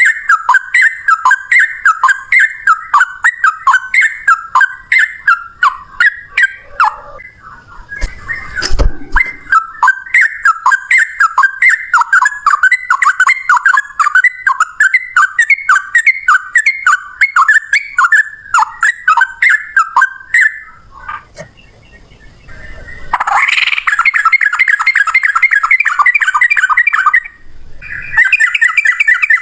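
Sooty-headed bulbul (trucukan) singing a long rapid-fire run of repeated whistled notes, about three a second, with a single knock about nine seconds in. After a short pause two-thirds of the way through, the song turns into a faster, denser chatter.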